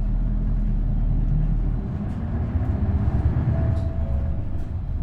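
Isuzu Erga bus's V8 diesel engine running under way, a steady low rumble; the deepest part of the note drops away about two seconds in.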